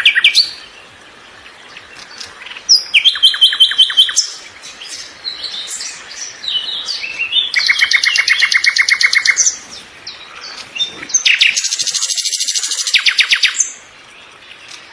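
Songbird singing: three loud, fast trills of a couple of seconds each, with softer chirps and short notes between them.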